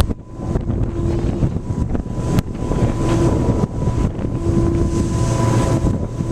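Ferry engines droning with a steady low rumble and hum, with wind buffeting the microphone.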